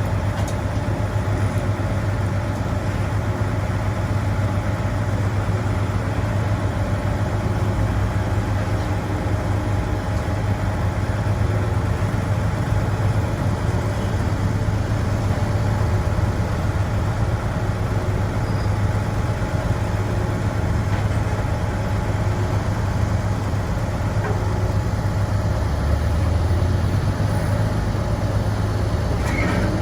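Heavy diesel engine of construction machinery running steadily at an even pace, with a strong low hum. A few short clicks come near the end.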